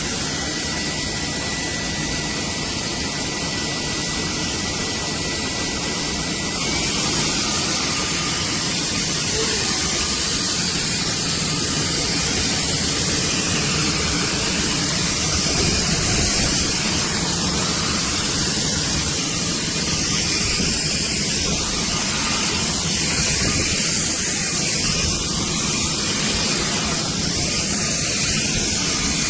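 Cordless stick vacuum cleaner running steadily, with a thin high whine for the first several seconds; about seven seconds in the whine stops and the running gets louder.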